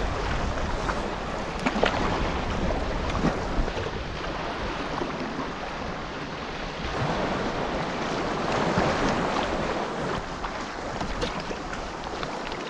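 Lake water washing and splashing around a canoe under way, with wind buffeting the microphone.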